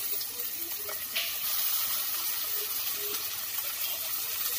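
Onions and freshly added chopped tomatoes sizzling in hot oil in an aluminium pot, a steady hiss, stirred with a wooden spatula, with a light knock about a second in.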